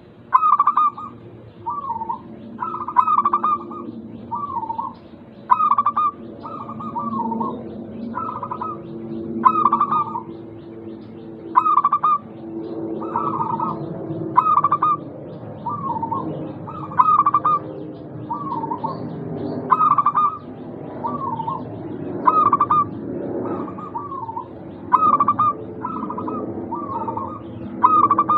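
Zebra doves (perkutut) cooing: short staccato coo phrases repeated about every one to two seconds, louder and fainter phrases interleaved as from more than one bird, over a low background murmur.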